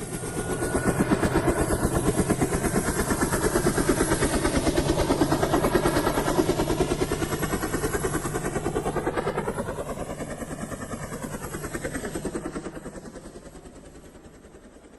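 A passing vehicle with a rapid, even pulsing beat. It swells in at the start, holds loud, shifts in tone as it passes, and fades away over the last few seconds.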